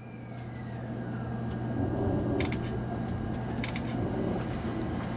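Cabin noise inside a JR Kyushu 883 series electric train at a station platform: a steady low electrical hum under a rumble, with two pairs of sharp clicks about a second apart in the middle.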